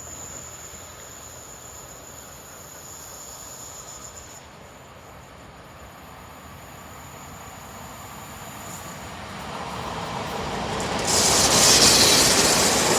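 Electric locomotive-hauled passenger train approaching on the rails, growing steadily louder, with a thin high whine over a low rumble for the first few seconds. About eleven seconds in it reaches the microphone and turns into a loud rushing rail noise as it passes close.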